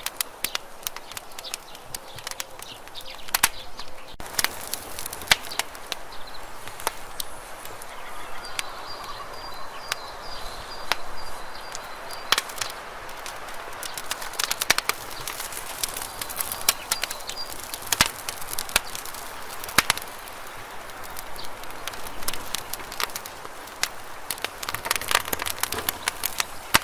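Campfire burning, the wood crackling with frequent, irregular sharp pops over a steady hiss. A faint high thin tone comes through twice.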